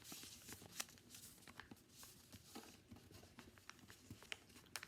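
Faint rustling and creasing of a sheet of paper being folded in half by hand, a scatter of small clicks and crinkles.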